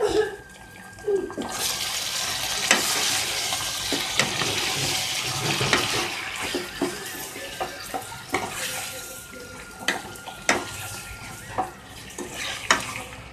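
Raw chicken sizzling in hot oil and fried onions in a steel pot while it is stirred with a spatula. The sizzle swells about a second and a half in and eases off in the second half. Scrapes and knocks of the spatula against the pot run through it.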